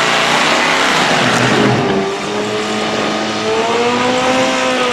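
Drag-racing car engine running hard, loud with broad exhaust and tyre noise; from about two seconds in its note climbs slowly in pitch, then dips near the end.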